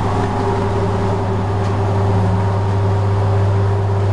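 Steady machine hum with a strong low drone and a fainter higher tone, unchanging throughout, over an even background hiss.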